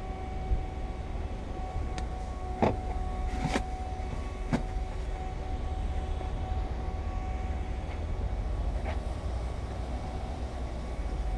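Steady low rumble with a faint constant hum. A few short clicks and knocks come between about two and four and a half seconds in, and one more near nine seconds.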